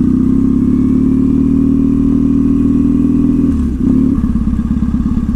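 Triumph Thruxton's 865 cc parallel-twin running under way through a slash-cut TT exhaust, holding a steady note, with a brief break and a change in pitch about three and a half seconds in before it runs on.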